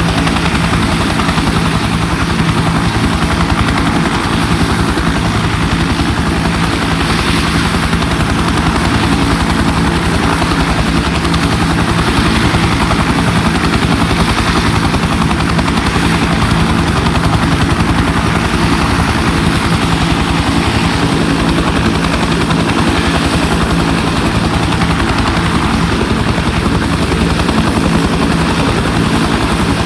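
UH-1 helicopter running steadily, heard from inside the cabin: the two-blade main rotor's rapid, even beat over the constant roar of its T53 turboshaft engine.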